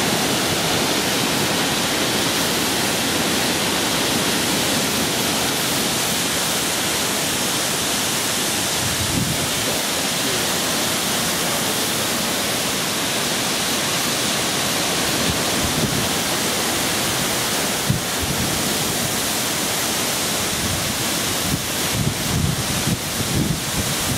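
Heavy hurricane rain pouring down in a steady, loud hiss. Near the end, gusts of wind buffet the microphone.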